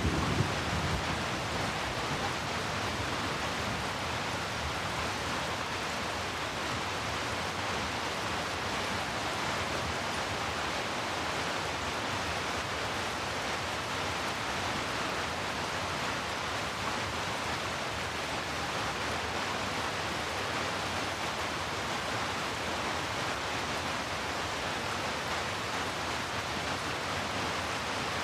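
Heavy rain falling steadily as a dense, even hiss. The tail of a low thunder rumble dies away in the first second.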